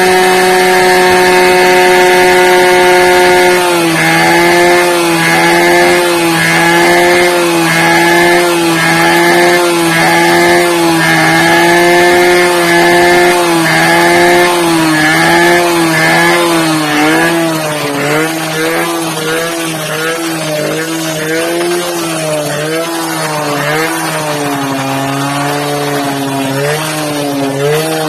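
Old TVS motorcycle's small engine running on fast idle after a cold start, a steady buzz at first. From about four seconds in, the revs rise and fall about once a second, wavering faster later and settling lower near the end.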